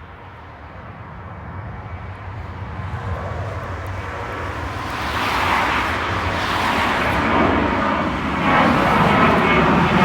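Jet airliner's engines, growing steadily louder as the aircraft comes closer, with the noise filling out and brightening from about halfway through.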